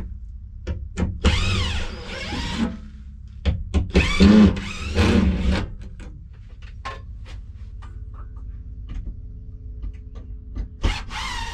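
Two long stretches of loud, wavering squealing scrapes, with scattered knocks and clunks between them, as items are dragged and handled while a shed is emptied out.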